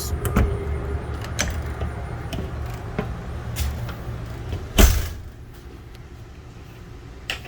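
Footsteps and clicks on a travel trailer's entry steps over a low rumble, then one loud knock about five seconds in as the entry door shuts. After that it goes quieter.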